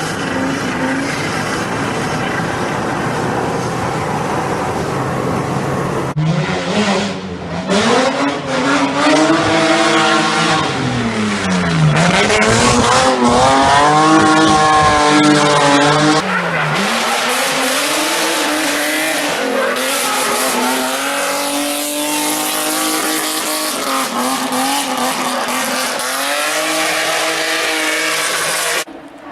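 BMW E30 engine revving up and down through its exhaust, with some tyre squeal. The sound changes abruptly about six seconds in and again around sixteen seconds, as one clip gives way to the next.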